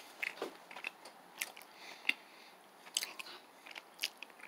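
Close-up chewing of a sweet and salty cashew granola bar, a string of short, soft crunches and mouth clicks spaced irregularly.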